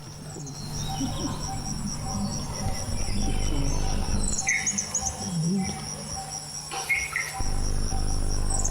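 Insects, like crickets, trill steadily and high-pitched with a fine rapid pulse. A bird chirps briefly twice, and there is a steady low hum underneath.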